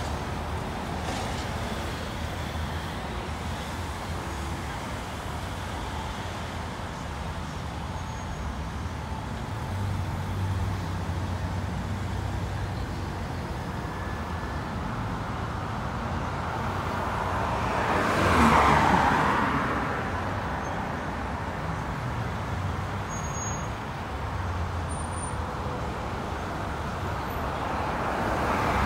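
Road traffic: a steady low engine drone with tyre noise, and one vehicle passing close about two-thirds of the way through, its sound swelling and then fading. Another vehicle approaches near the end.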